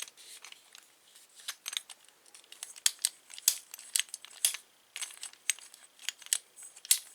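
Quick, irregular metallic clicks and light jingling as a key is worked in a Schlage keyed door knob's lock cylinder, turning it between locked and unlocked.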